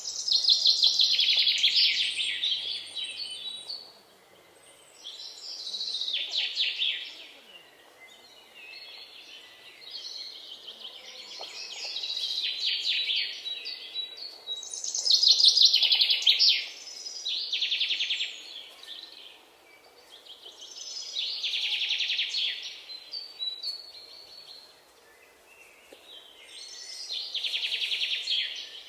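Bird song: a rapidly pulsing, trilled phrase of two to three seconds that swells and fades, repeated about every four to five seconds.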